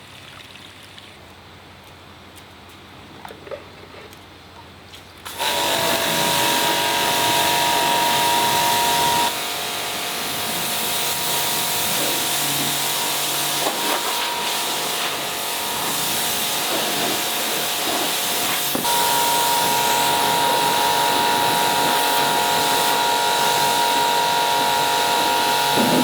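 A loud workshop machine starts suddenly about five seconds in and runs steadily: a hiss with a high whine over it, the whine dropping away for a while midway and then returning.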